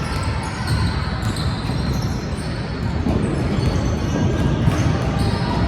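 Basketball game play in a gym: a ball bouncing on the court over steady noise from players and spectators, with scattered short sharp sounds.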